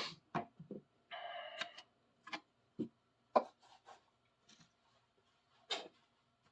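Faint, scattered clicks and taps from a large steel adjustable wrench being handled and wiped clean, with a brief squeak about a second in.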